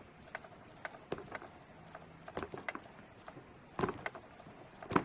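Fingernails picking and scratching at the tight plastic shrink-wrap seal on a phone box: scattered light clicks and crinkles, with a few sharper snaps about a second in, midway, and near the end.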